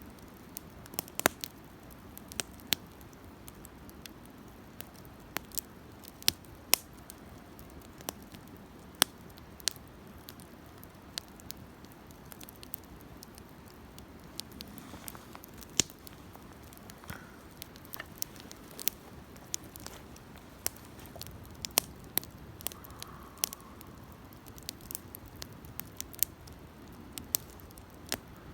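Wood campfire burning, with irregular sharp crackles and pops a few times a second over a soft low hiss of flame.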